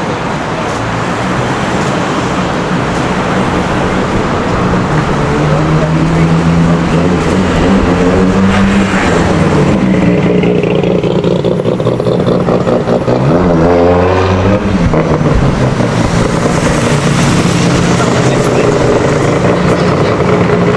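City street traffic: motor vehicle engines running steadily, with engine pitch sweeping up and down twice as vehicles move past.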